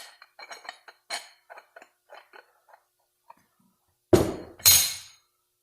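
Steel clutch plates clinking lightly as they are handled while a 46RE transmission clutch pack is assembled, then two loud metal clanks about four seconds in as plates are set down into the drum.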